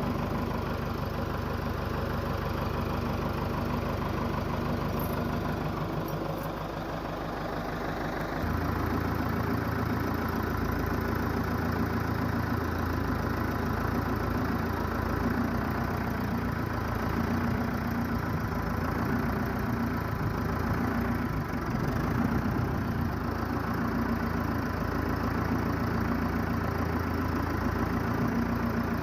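An engine running steadily; about eight seconds in its note shifts and it gets a little louder.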